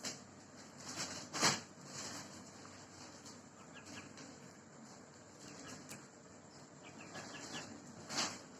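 Aseel rooster flapping its wings in a few short bursts, the loudest about a second and a half in and another near the end, with a few faint high chirps between.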